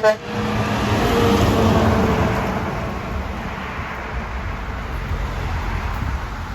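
A truck drives past with its engine running, loudest about one and a half seconds in and then fading away. A very brief pitched sound comes right at the start.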